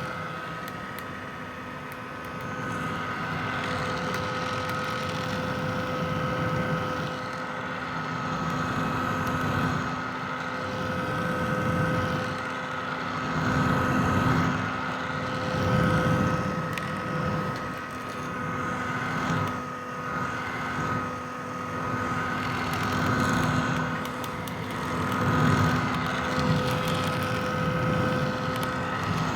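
Vintage hair dryer running: a steady motor whine over rushing air, its loudness swelling and easing irregularly.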